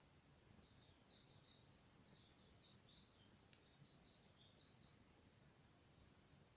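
Faint song of a small bird: a quick run of short, high, twittering notes lasting about four seconds, with one sharp click about halfway through.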